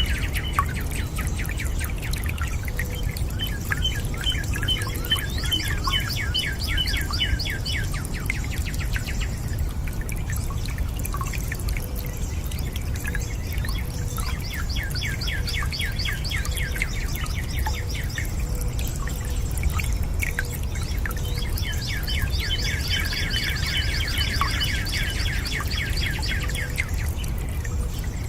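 Steady running and dripping water, with a bird singing a fast trill in phrases of several seconds, repeated about four times.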